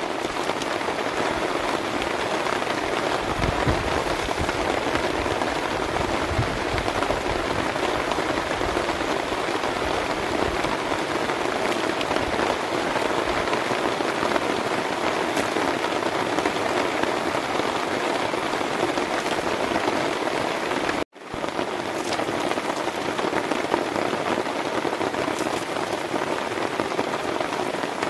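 Heavy rain falling steadily, a continuous hiss of rain on the ground. It cuts off for an instant about three quarters of the way through, then carries on unchanged.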